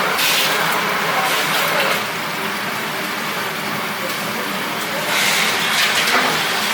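Chicken pieces deep-frying in hot oil: a steady sizzling hiss that swells a little near the start and again near the end.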